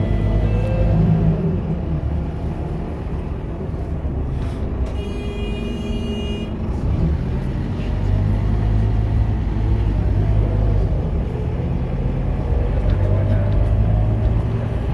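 Scania K230UB bus's diesel engine running under way, its note rising and falling as it revs. A brief high-pitched tone sounds about five seconds in and lasts over a second.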